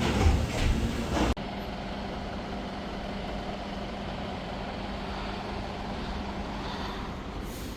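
Steady running noise of a motor vehicle on the move, an even rumble with a constant low hum. It starts abruptly about a second and a half in, after a brief stretch of voices and dish clatter.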